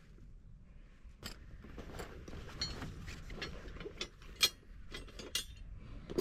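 Camping gear being handled and assembled: an irregular run of small metallic clicks and clinks, with one sharper clink about four and a half seconds in.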